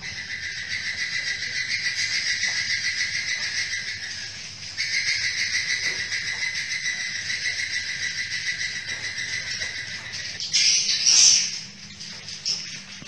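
Swiftlets giving a rapid, buzzy run of chirps. It breaks off briefly about five seconds in, grows louder near the end and then drops away.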